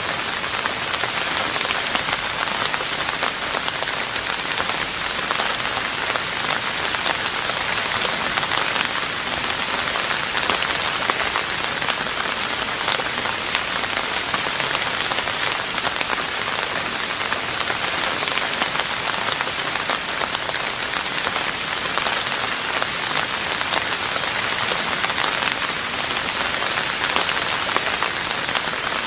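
Steady rain falling on a roof, a dense even patter of drops with no let-up.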